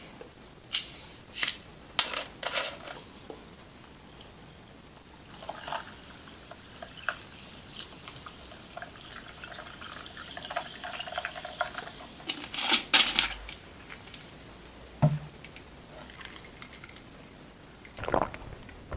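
Liquid pouring: an even hiss for about eight seconds, with sharp clicks and taps before it and a few knocks after.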